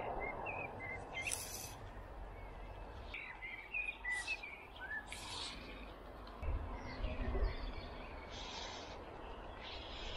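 Small birds chirping in short, separate high notes over steady outdoor background noise, with a few brief hissing swishes and a low rumble about two-thirds of the way through.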